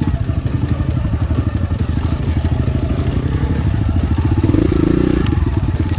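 Enduro motorcycle engine running at low speed on a trail, its firing pulses steady, with the revs picking up briefly about three-quarters of the way through.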